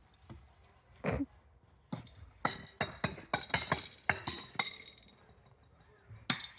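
Outdoor playground chimes struck with a stick: a single ringing strike, then a quick run of about a dozen strikes over two or three seconds, and one more strike near the end.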